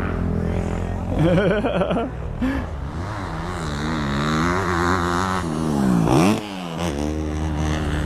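Four-stroke motocross dirt bike engine revving up and down as the throttle is worked, its pitch climbing and falling several times, with a sharp rise and a sudden drop about six seconds in.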